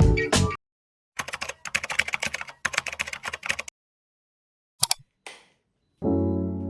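Fingers typing quickly on a computer keyboard: two runs of rapid, uneven key clicks, then one or two single key presses a little later. Background music stops just before the typing and starts again near the end.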